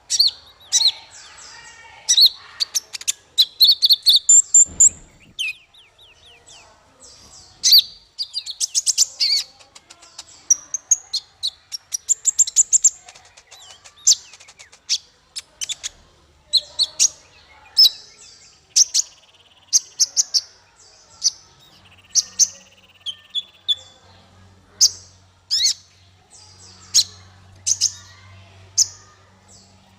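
Small songbird singing a rapid series of sharp, high chirps and short trills in bursts with brief gaps. A faint low hum comes in about two-thirds of the way through.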